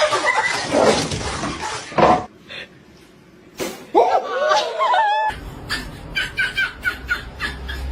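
People laughing, followed about four seconds in by a short cry that bends in pitch, then a run of short clicks and chirps.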